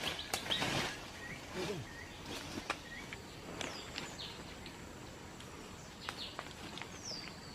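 Night outdoor ambience: a faint steady high-pitched insect drone, with short falling chirps every second or two. A few sharp clicks and rustles in the first second.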